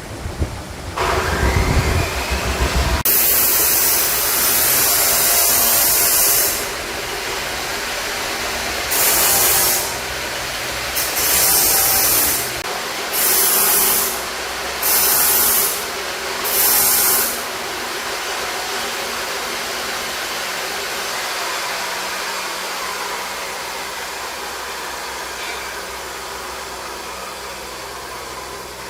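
Compressed air hissing from a workshop air gun: one long burst, then five short bursts about a second and a half apart, over a steady machine hum. A loud low rumble comes before it in the first few seconds.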